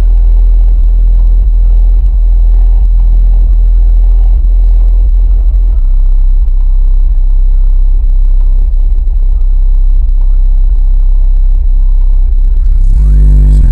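Two RE Audio SX 12-inch car subwoofers in a box tuned to 32 Hz, playing a bass-heavy song at full volume. Deep bass notes swamp the microphone. Near the end the bass gets louder and fuller.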